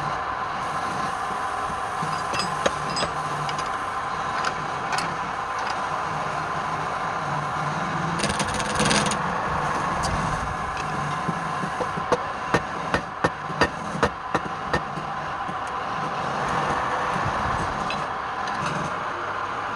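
A woodturning lathe running with a steady hum while wood is scraped and worked. About two-thirds of the way through comes a quick run of about eight sharp knocks.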